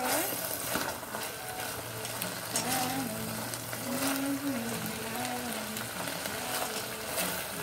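Chicken pieces sizzling as they are stir-fried in a stainless steel pot, with a spatula clicking and scraping against the metal again and again.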